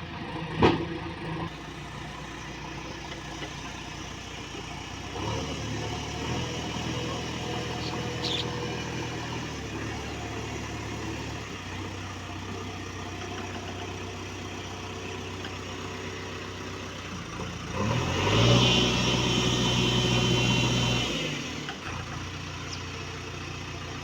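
Heavy diesel engine running steadily, revving up for about three seconds about three-quarters of the way through, then settling back. A single sharp knock comes just after the start.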